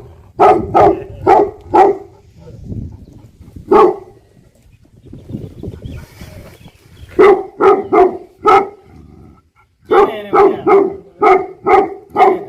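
Tibetan mastiff barking in repeated deep barks. They come in bursts: a run of four, a single bark, four more, then a fast run of about eight near the end.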